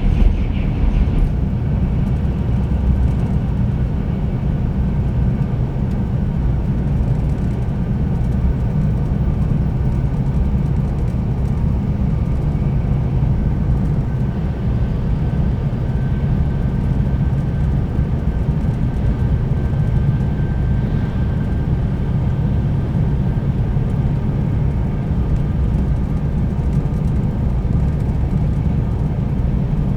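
Cabin running noise of a Tokaido Shinkansen 300 series train: a steady low rumble of wheels on rail and body noise, heard from a seat inside the car.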